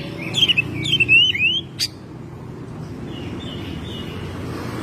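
Oriental magpie-robin singing quick runs of sliding whistled notes for about a second and a half. A single sharp click follows, and the song stops, leaving steady low background noise.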